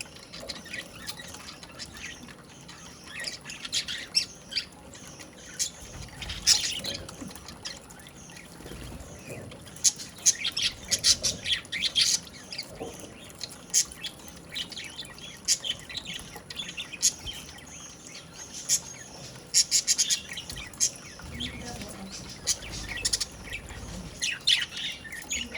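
Budgerigar chirping and squawking in rapid bursts of short, high-pitched calls, with brief pauses between bursts.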